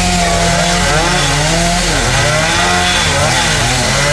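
Chainsaw cutting into a tamarind tree, its engine pitch rising and dipping repeatedly as it revs and bogs under load.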